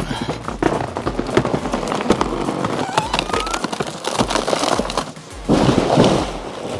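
A large tree falling after a chainsaw cut: wood cracking and creaking, then branches breaking and crashing, loudest about five and a half seconds in. Background music with a steady beat plays underneath.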